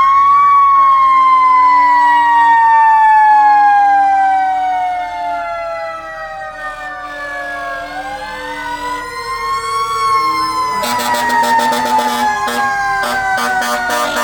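A fire truck siren winds up to a high wail, then slowly falls in pitch over several seconds. It winds up again about eight seconds in and starts falling once more. Near the end a rapidly pulsing electronic sound joins it.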